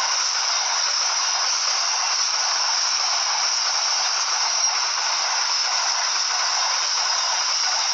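Steady, even hissing noise with no change in level, strongest in the high range and with no low rumble.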